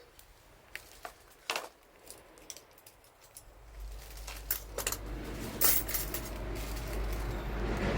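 Wood fire crackling with scattered sharp pops and clicks, then a low rumble rising from about halfway through.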